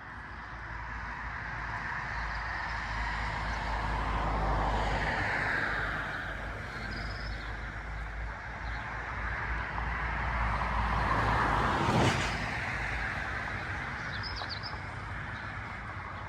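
Road vehicles driving past close by, two in turn: the first is loudest about four to five seconds in, the second builds to a sharp peak about twelve seconds in and then fades.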